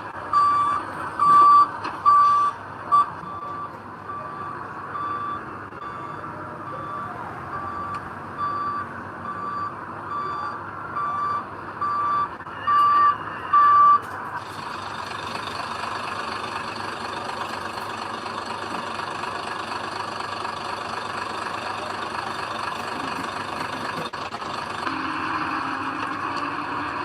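Reversing alarm on a heavy earthmoving vehicle beeping about one and a half times a second, loud at first, fainter for a while, then loud again, over a running diesel engine; the beeping stops about halfway through and a steady wide noise from the machinery carries on.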